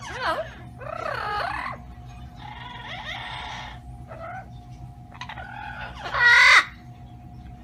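Pet parrot calling several times in short bending squawks and chatter, the loudest call about six seconds in.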